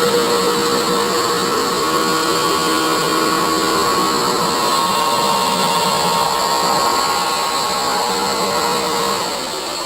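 A 4.5-inch angle grinder with a cut-off disc cutting through 1/4-inch mild steel bar: a steady whine from the spinning disc over the rough noise of the cut. It eases a little near the end.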